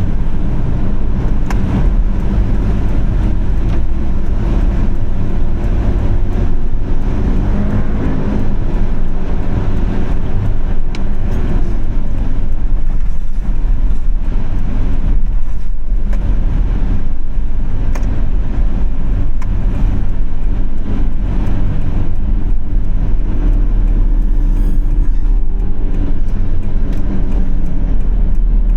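Car driving in city traffic: a steady low rumble of engine and road noise.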